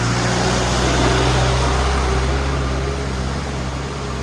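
A motor vehicle's engine running steadily with a low hum, over a steady rush of road noise.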